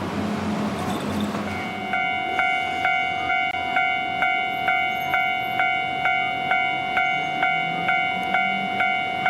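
Street traffic noise, then about a second and a half in a railway level-crossing warning bell starts ringing, a steady clang about twice a second.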